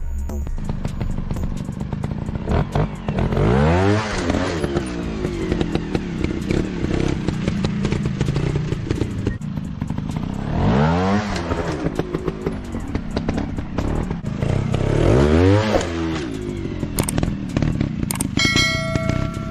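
Dirt-bike engine running, its pitch rising and falling in three big revs or surges, with clattering over the top.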